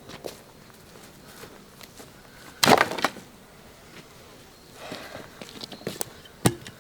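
Things being handled: a short burst of clatter and knocks a few seconds in, then scattered small clicks and one sharp knock near the end.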